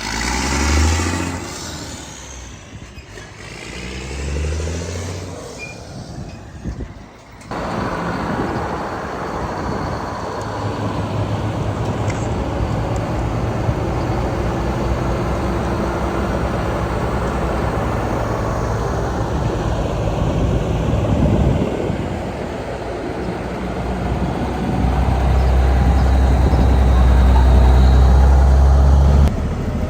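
Vintage trucks driving past with their engines running. A low engine drone grows louder over the last few seconds and stops abruptly near the end.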